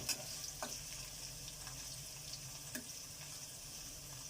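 Ginger and garlic sizzling steadily in hot sunflower oil in a pan, with a few light knocks of a utensil against the pan.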